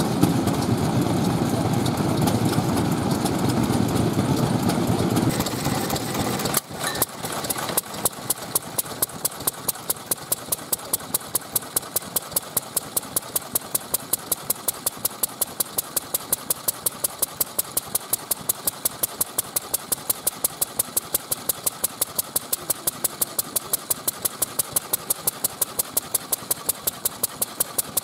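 A loud, dense rumble that stops abruptly about six and a half seconds in. It gives way to an old single-cylinder stationary engine running steadily, its exhaust firing in sharp, even pops about four times a second.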